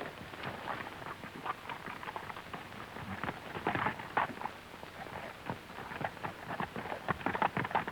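Horses' hooves clattering in an irregular run of many sharp knocks on the film's soundtrack.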